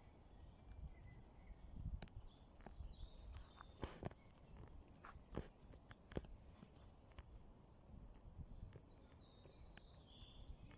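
Faint outdoor ambience with small birds singing high chirps and trills, including a run of about six quick repeated notes in the second half, over a low background rumble, with a few scattered light knocks.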